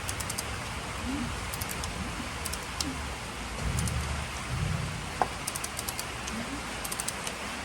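Hand tools working on an engine during a compression test: several short runs of quick, light clicking and a couple of dull low bumps about halfway through, over a steady background hiss.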